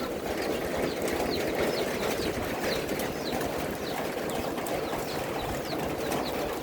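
Outdoor animal chorus: a steady dense din with short, high falling chirps repeating two or three times a second.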